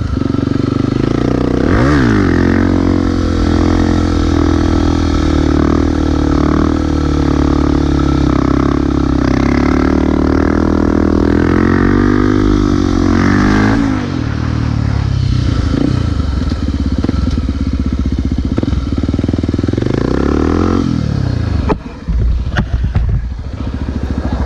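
Honda XR250 Tornado's single-cylinder four-stroke engine during wheelie practice. It revs up about two seconds in and holds high, steady revs for roughly ten seconds, then drops back to lower, uneven revs. It picks up briefly once more before falling off near the end, with some clatter.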